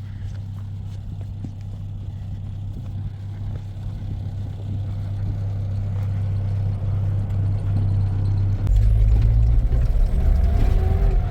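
A vehicle engine running, growing steadily louder, with the deep low rumble thickening suddenly about two-thirds of the way in.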